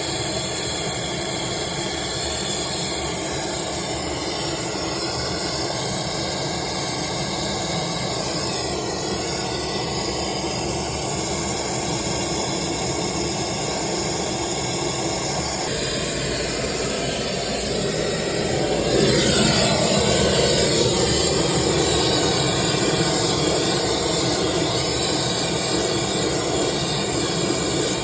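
Oxyacetylene brazing torch flame hissing steadily during brazing on a refrigerant line valve. It changes about two-thirds of the way through and becomes louder for the rest.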